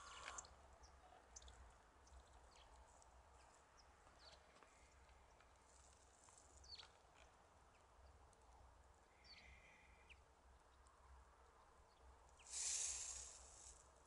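Near silence outdoors, broken by a few faint, short, high calls from small birds, each falling in pitch. Near the end comes a brief rustling hiss lasting about a second.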